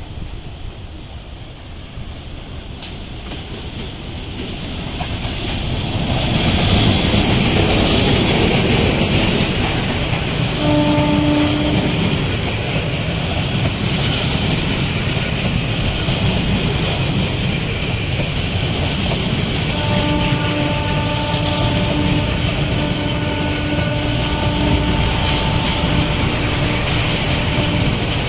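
A Bangladesh Railway diesel-hauled passenger train approaches, getting louder over the first six seconds, then its coaches pass close by with a steady rumble and clacking of wheels over the rail joints. A train horn sounds briefly about eleven seconds in, and again in a longer broken series of blasts from about twenty to twenty-seven seconds.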